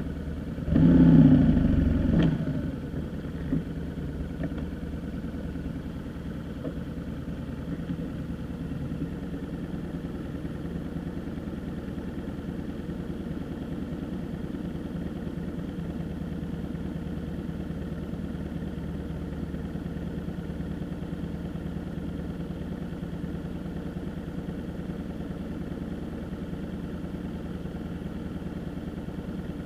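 Vehicle engine idling steadily, with a brief louder surge about a second in.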